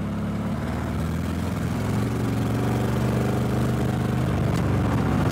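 Lada's four-cylinder engine running while driving, with only three cylinders firing, its note steady and slowly growing louder. The misfire is typical of a hole burned through one of the patched pistons, as the driver suspects.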